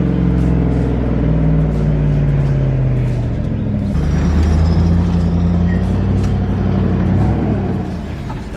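Vehicle engine running under way with a steady drone, its pitch sliding slowly down, changing about four seconds in, then easing off and quieting near the end.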